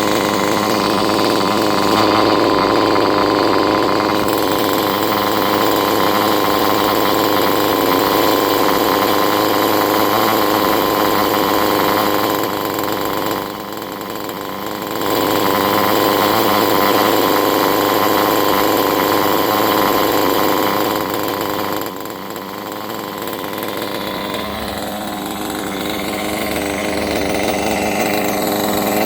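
Small nitro (glow) engine of a Kyosho Neo 4.0 RC engine buggy running steadily at a high pitch, its level dropping twice, about halfway through and again about three quarters through, then building back up.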